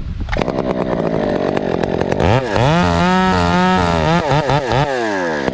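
Husqvarna 372XP two-stroke chainsaw running loud at high revs in a felling cut. Its pitch climbs sharply about two seconds in, wavers, dips several times as it bogs and recovers, and drops near the end.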